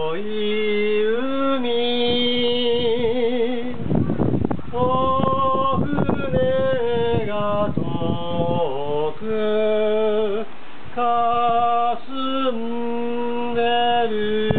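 A voice singing long held notes with a wavering vibrato. In the middle, rough gusts of wind noise hit the microphone.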